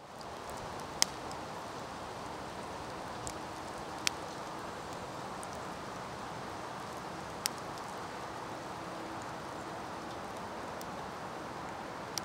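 Small wood campfire burning with a steady hiss and a few sharp pops of crackling wood, the loudest about a second in.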